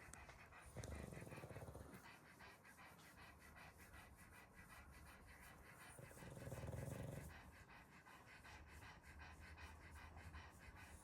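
A dog snoring softly: two slow snoring breaths about five seconds apart, each lasting about a second.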